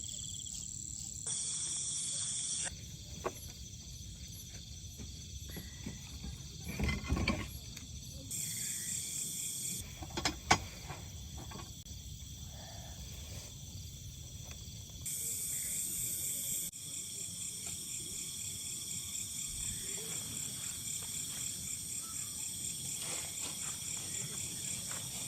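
Crickets and other night insects trilling in a steady, finely pulsing chorus, whose pitch and loudness shift abruptly a few times. A couple of brief knocks sound about seven and ten and a half seconds in.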